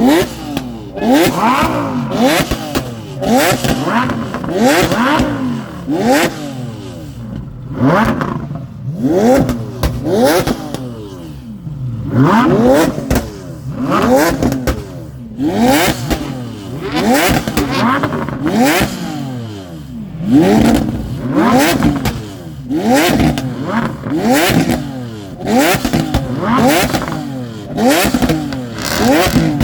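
Supercar engine revved hard again and again in short blips, each rising sharply in pitch and falling back, about one a second, with crackles between the revs.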